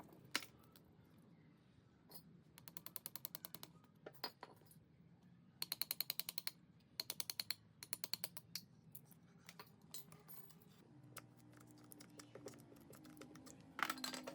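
Several runs of fast, evenly spaced ratchet-like clicking from a hand tool or mechanism in the motor work, with a sharp knock just after the start and a louder one near the end. A faint low hum sits underneath.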